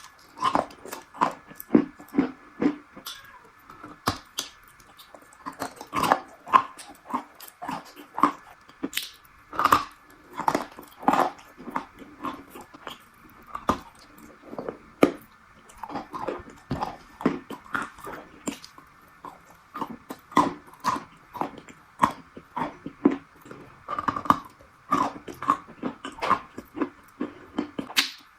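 Something crunchy being bitten and chewed close to the microphone: sharp, irregular crunches, often several a second, over a faint steady hum.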